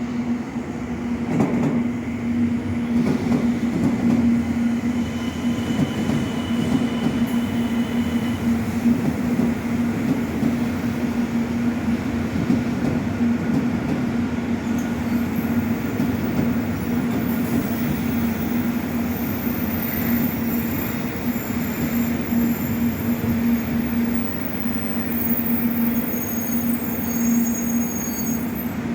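Sanyo Shinkansen train at a station platform: a continuous rumble of wheels on rail with a steady low hum.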